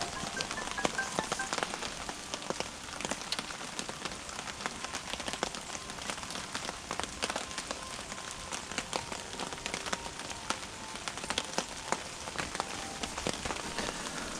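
Wood or charcoal fire in a small camp cooking stove crackling with dense, irregular small pops. Faint music drifts in from a distant factory's loudspeaker across the river.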